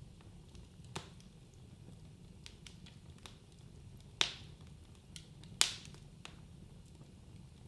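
Wood fire crackling in a fireplace, with a low steady rumble underneath. Scattered small ticks, one sharper pop about a second in, and two loud pops about four and five and a half seconds in.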